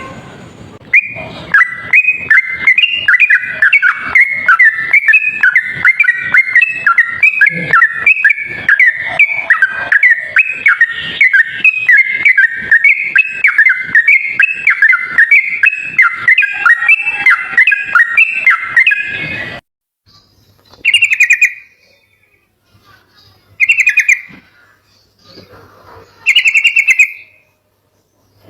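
Yellow-vented bulbul (trucuk) singing a rapid, unbroken run of bubbling warbled phrases for about twenty seconds. The song cuts off abruptly, then comes back as three short phrases a few seconds apart.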